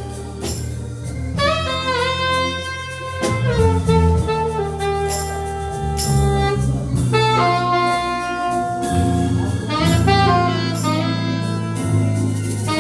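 Live jazz band playing: a horn holds long melody notes, one bending near the start, over a walking bass line and drums with cymbal strokes.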